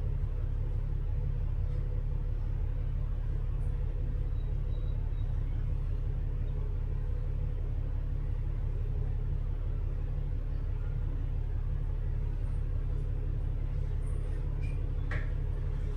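Bus engine and drivetrain running steadily, heard from inside the cabin as an even low rumble.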